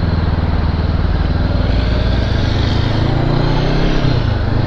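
Motorcycle engine running while riding: its note sinks a little at first, then climbs from about halfway and changes pitch near the end. A steady rushing noise runs beneath it.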